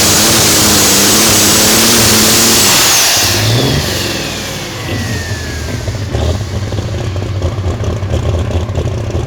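Turbocharged diesel engine of a pulling truck or tractor at full throttle, let off about three seconds in. The turbo whine falls steadily over the next few seconds while the engine drops to an uneven idle.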